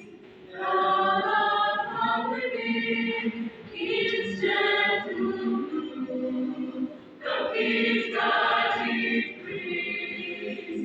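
Church choir singing in phrases of several seconds each, with short breaks between them.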